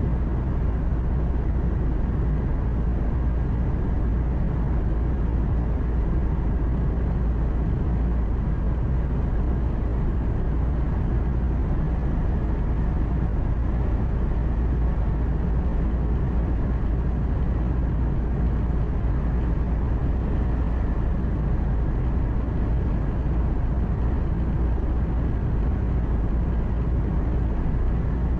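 Steady drone of a truck's engine and road noise heard from inside the cab while driving, low and even throughout.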